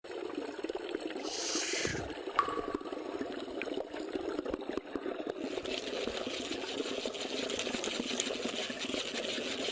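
Mountain stream water running steadily, with a brief louder rush of water about a second and a half in and a single sharp click just after.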